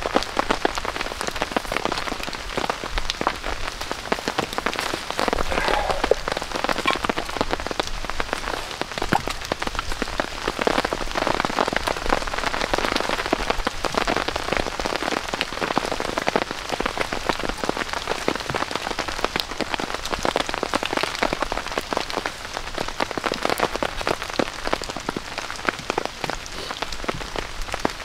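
Steady rain falling on a tarp shelter overhead: a dense, even patter of many drops.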